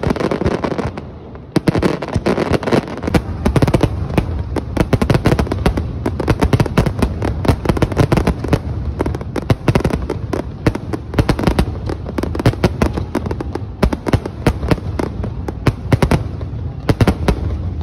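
Aerial fireworks display in a dense barrage: rapid, overlapping bangs and crackling over a continuous low rumble, with a brief lull about a second in.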